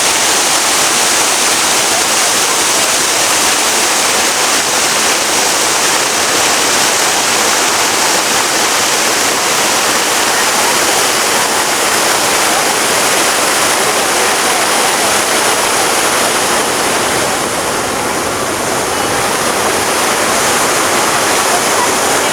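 Steady, loud rush of splashing water, like a fountain or cascade.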